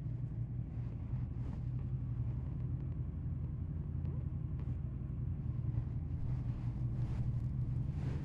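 Triumph Speed Twin 1200's parallel-twin engine and exhaust running at a steady low note.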